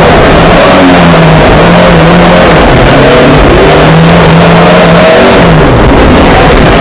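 Ford Escort Mk2 rally car engine at full load, very loud. The note is held high and breaks and dips several times for gear changes and lifts off the throttle, then falls away near the end.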